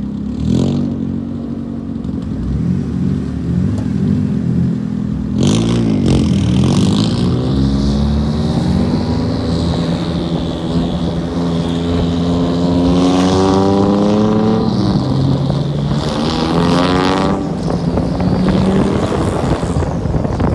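Tuned drift car's engine pulling hard, its pitch climbing steadily through a long pull in the middle and dropping back at gear changes, with a couple of brief bursts of noise.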